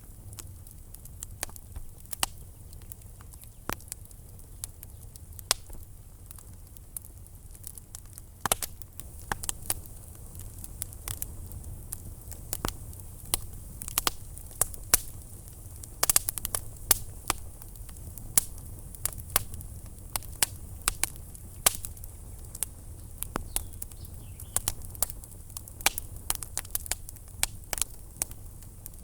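Wood fire burning in a fireplace: irregular sharp crackles and pops over a low rumble of the flames, the crackling growing busier about a third of the way in.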